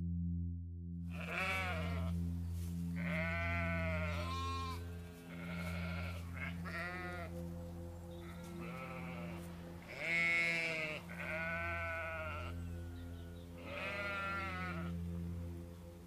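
Several sheep bleating in turn, starting about a second in, with about ten wavering calls of differing pitch over a low steady drone of background music.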